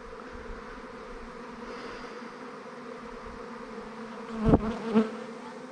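Steady buzzing hum of a swarm of honeybees flying around, with two brief louder sounds about four and a half and five seconds in.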